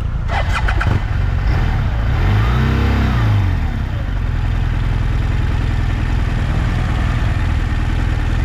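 Adventure motorcycle engine running off-road, revved up once and eased back down about two seconds in. A few sharp knocks near the start.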